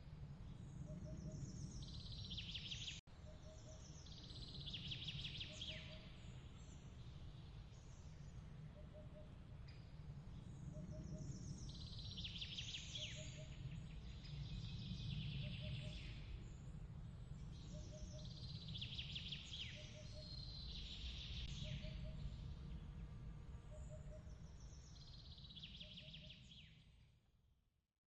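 Ambience of birds chirping in bursts that slide downward and recur every few seconds, over a low steady rumble, with a soft double pip repeating a little more than once a second. There is a brief dropout about three seconds in, and the whole bed fades out near the end.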